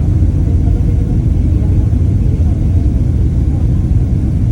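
Steady low rumble of cabin noise inside a Boeing 767-300 airliner in flight, the engines and airflow heard from a passenger seat.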